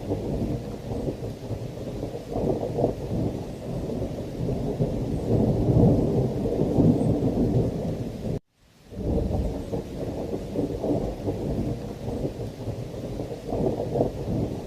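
Heavy rain under continuous low rolling thunder, the rumble swelling loudest a little before halfway. About two-thirds of the way through, the sound cuts out abruptly for about half a second and then fades back in.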